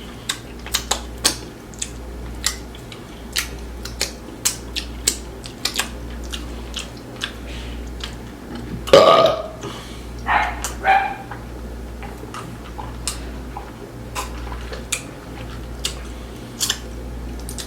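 Close-miked eating of crispy fried wings and fish: wet chewing with sharp lip smacks and crunches clicking every fraction of a second, and a loud burp about nine seconds in, followed by a couple of shorter throaty sounds.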